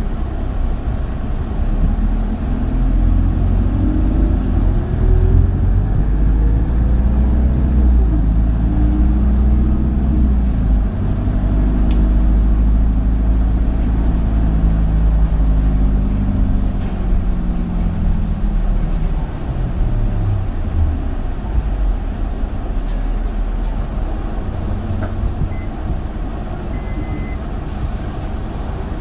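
Isuzu Erga (2RG-LV290N3) city bus's diesel engine heard from inside the cabin, pulling away with the engine note rising, then dropping sharply at a gear change about eleven seconds in. The bus runs on, then the engine note falls away from about sixteen to twenty-one seconds in as it slows, and it rolls on more quietly with a short hiss of air near the end.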